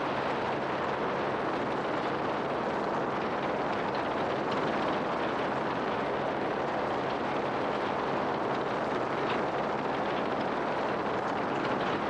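A vehicle's engine running steadily with a low drone under a constant rush of air noise, unchanging throughout.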